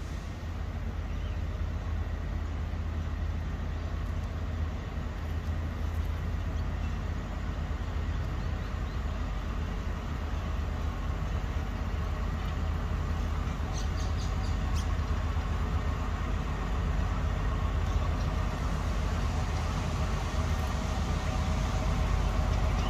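Diesel locomotive engine running, a steady low rumble that slowly grows louder toward the end.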